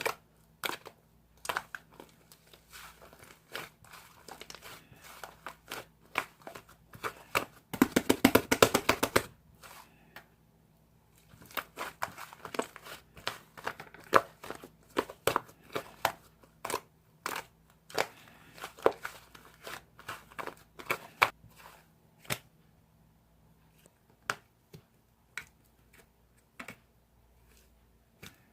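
Slime being handled by hand, giving sticky clicks and pops, with a dense run of rapid crackling pops about eight seconds in.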